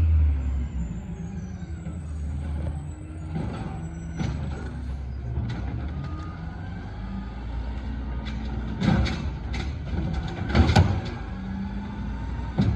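Garbage truck engine running with a steady low rumble, with a few loud knocks and bangs about nine and eleven seconds in.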